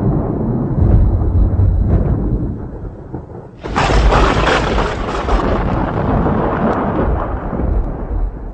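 Thunder: a low rolling rumble, then a sharp thunderclap a little over three and a half seconds in that dies away into a long rumble.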